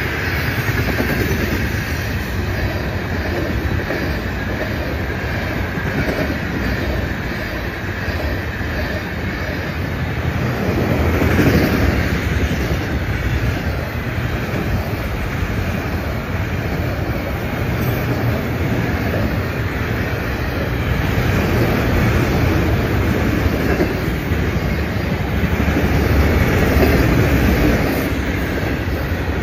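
A Florida East Coast Railway freight train's cars rolling past: hopper cars, then autorack cars. Their steel wheels rumble steadily on the rails with a clickety-clack, swelling louder twice, about a third of the way in and again near the end.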